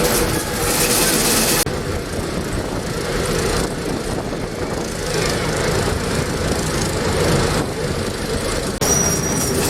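Steady engine rumble with a constant hum. The hiss above it jumps abruptly up or down a few times.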